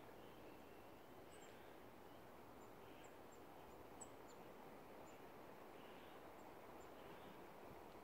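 Faint outdoor quiet: a low hiss with about a dozen very short, high bird chips scattered through, one a little louder about four seconds in.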